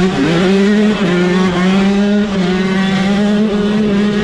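Dirt bike engine running at high revs, its pitch climbing just at the start and then held steady, with brief dips about one and two seconds in.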